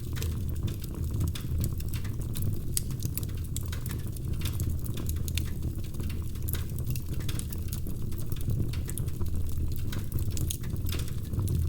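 Wood fire crackling, with many small, quick pops and snaps over a steady low rumble.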